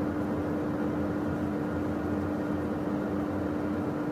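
Steady cockpit noise of a Beechcraft Premier 1A jet in flight: an even rush of airflow and engine noise from its twin Williams FJ44 turbofans, with a steady hum underneath.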